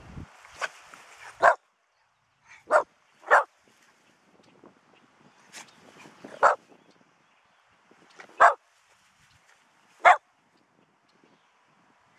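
Dog barking: single short, sharp barks, about eight in all, coming every one to two seconds with uneven pauses between them.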